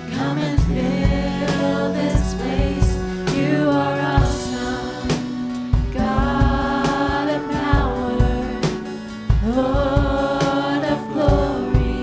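Live worship song with singing: long held sung notes over a band with regular drum beats.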